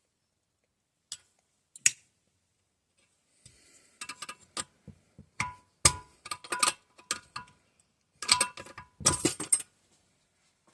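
Small metal engine parts and tools clicking and clinking against each other, some with a short metallic ring, in two busy clusters after a few scattered clicks, as the governor is worked off its pin inside the crankcase of a 196cc small engine.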